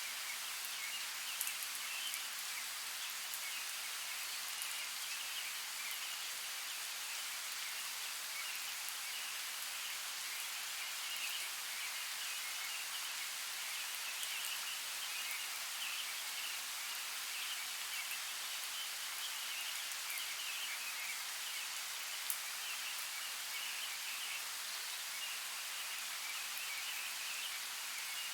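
Steady hiss of running water in a forest soundscape, with a few faint ticks scattered through it.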